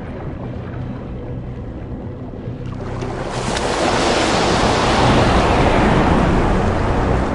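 Sea water rushing like surf. The sound swells from about three seconds in to a loud, steady wash over soft background music.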